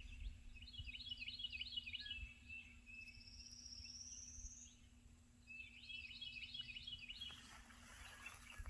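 Songbirds singing faintly in short, repeated chirping phrases, with a higher, slightly rising trill in between. A low rumble of wind on the microphone runs underneath.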